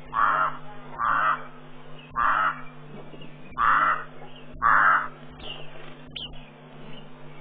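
A bird calling five times, about a second apart, each call short and coarse. A brief high chirp follows near the end, over a steady low hum.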